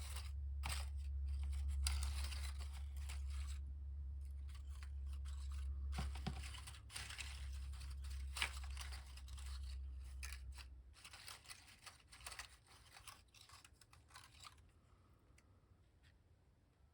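Sheets of paper and card being handled, shuffled and rustled in irregular bursts, with a low steady hum that stops about eleven seconds in; the rustling thins out and grows faint near the end.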